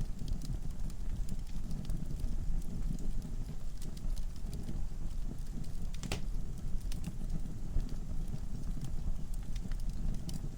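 Wood fire burning in a fireplace: a steady low rumble of flames with scattered sharp crackles and pops, the loudest pop about six seconds in.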